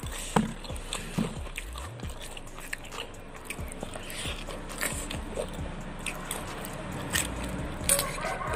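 Close-up, mouth-level chewing and crunching of raw lettuce leaves dipped in chili sambal, a run of short crisp crunches. Near the end comes a loud, crisp bite into a raw cucumber.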